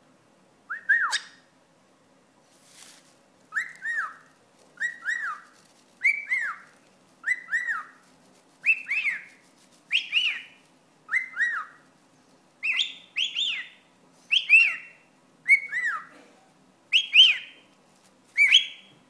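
Pet cockatiel whistling a repeated two-part wolf-whistle, about one a second, the whistles climbing higher in pitch as they go on.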